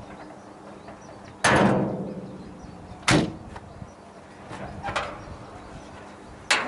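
Four sharp metallic knocks with a short ringing tail, about a second and a half apart. The first is the loudest. They come from a wrench working loose the oil filter bowl on a Moskvich 412 engine.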